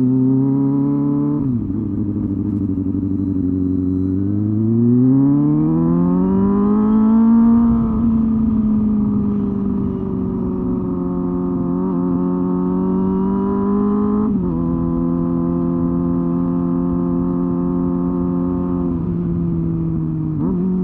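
Honda Hornet 250's inline-four engine and exhaust under way. The engine note drops sharply at gear changes, climbs steadily under acceleration, then settles back and holds at a steady pitch.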